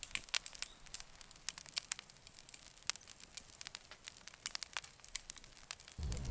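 Campfire crackling: irregular sharp pops and snaps over a soft hiss, with a low rumble coming in just before the end.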